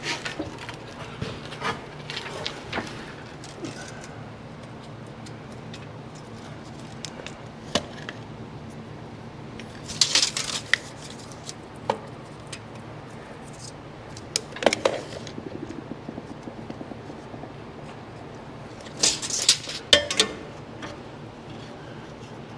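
Light clinks, clicks and scrapes of hand tools handled on a half-inch steel plate while a centre line is laid out, with two brief louder scraping bursts about ten and nineteen seconds in, over a steady low shop hum.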